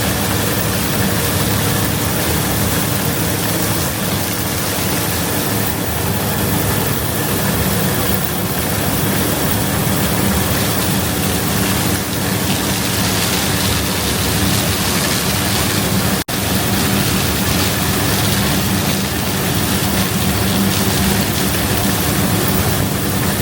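Heavy harvest machinery running steadily at full working speed: a loud diesel drone with an even mechanical rush over it. It cuts out for an instant about 16 seconds in.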